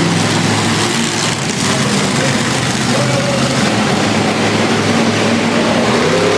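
Monster truck engine running loudly, a steady low drone with brief swings in pitch as the throttle is worked.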